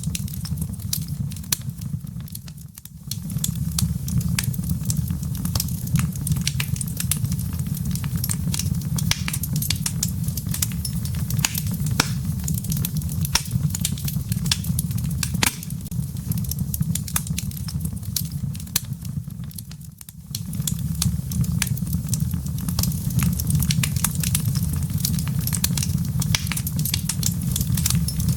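Wood fire in a fireplace, embers crackling with many sharp pops over a steady low rumble. The sound dips briefly twice, about three seconds in and again near twenty seconds.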